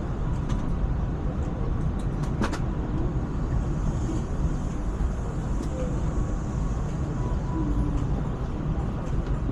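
ETS electric train running, a steady low rumble with a couple of sharp clicks about two seconds in.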